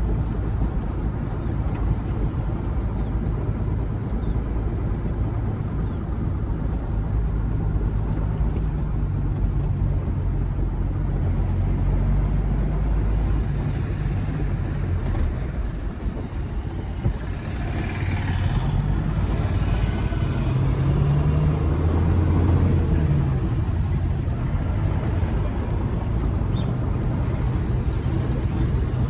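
Truck engine running steadily under road noise, its low drone shifting in pitch as the speed changes. A brief rush of noise comes about eighteen seconds in.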